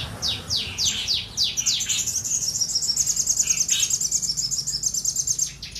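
A sogon songbird singing hard in challenge song: a run of loud, sharply falling whistled notes, then a long, fast, high trill that stops near the end.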